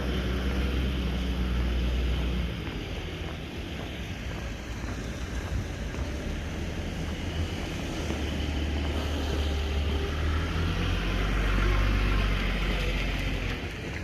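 Wind buffeting the microphone: a low, uneven rumble that drops about two and a half seconds in and swells again towards the end, over a steady outdoor hiss.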